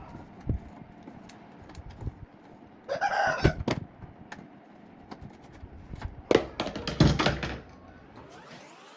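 Scattered knocks and clicks of hand work on parts, with a loud cluster of knocks about six to seven and a half seconds in. An animal call, like a rooster's crow, wavers for about a second starting three seconds in.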